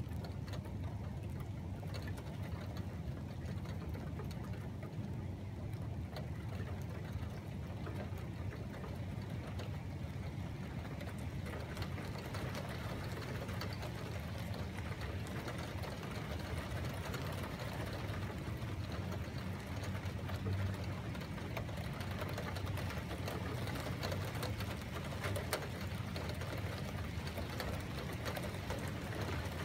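Steady rain with wind rumbling on the microphone, and fine raindrop ticks throughout. The rain hiss grows somewhat heavier about halfway through.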